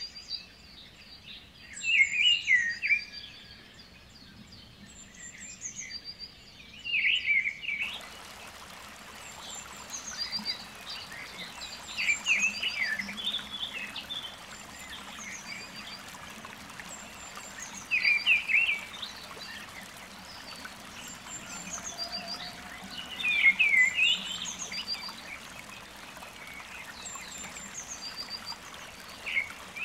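Birds calling, with a loud burst of chirps roughly every five seconds among fainter repeated calls. A steady hiss, like flowing water, comes in about eight seconds in and carries on under the calls.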